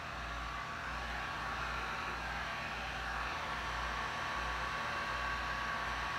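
Steady rushing air noise, like a small blower or fan motor running, with a faint steady hum and no change in level.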